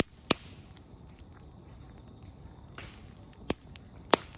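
Open wood campfire crackling: burning firewood gives sharp pops, a loud one soon after the start and two more near the end, with fainter snaps between over a low steady hiss of the fire.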